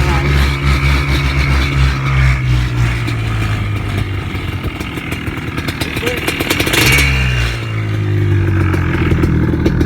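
Yamaha Blaster ATV's two-stroke single-cylinder engine running under way. Its note eases off in the middle, then picks up again with a short clatter about seven seconds in.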